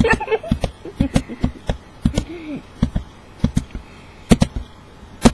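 Irregular sharp taps and clicks, a dozen or more, with a short low hum about two seconds in.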